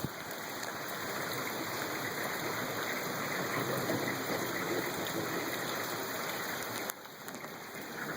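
Steady rain falling during a thunderstorm, a constant hiss that drops in level briefly about seven seconds in.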